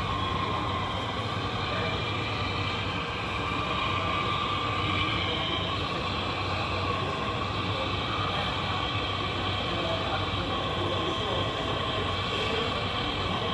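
Electric motors and gearboxes of radio-controlled model construction machines running steadily, with a whine that drifts slightly in pitch over a low hum.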